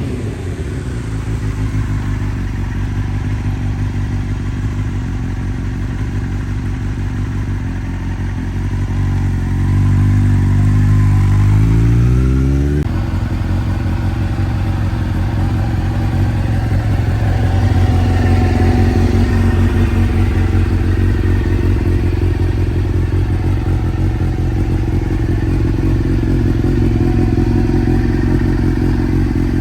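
Suzuki GSX-R600 SRAD's inline-four engine running at idle. Its revs climb slowly about nine seconds in, drop abruptly about thirteen seconds in, and then it runs on steadily.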